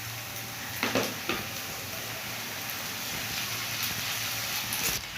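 Fried rice sizzling in a hot pan as it is stirred, just after soy sauce and vinegar have gone in; a steady hiss with two short knocks about a second in.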